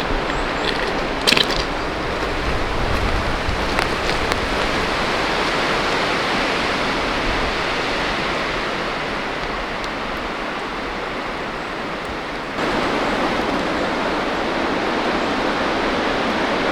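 Heavy rain falling in a storm, a dense steady rushing hiss, with a few sharp drip taps in the first few seconds. It gets suddenly louder about three-quarters of the way through.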